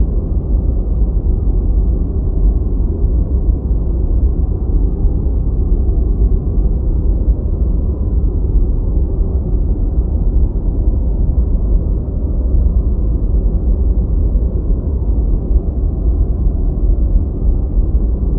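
Steady deep white noise: an even, low rushing noise with no highs, unchanging throughout.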